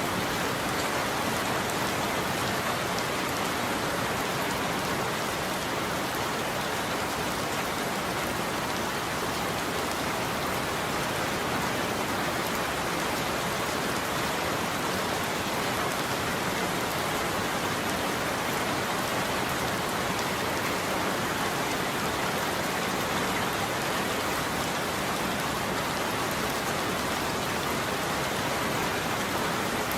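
Steady heavy rain falling, an even hiss of drops with no rise, fall or thunderclap.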